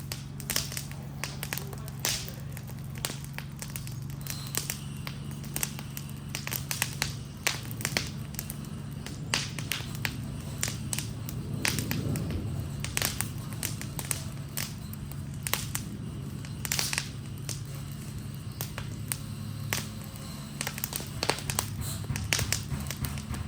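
Wooden Adirondack chair burning in a fire: irregular sharp crackles and pops of burning wood, over a steady low drone.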